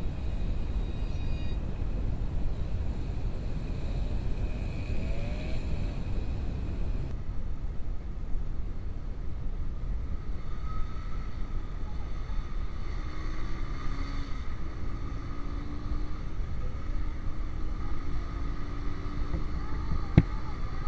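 Motorcycle engine running while riding, under a heavy steady rumble of wind on the microphone, with one sharp click near the end.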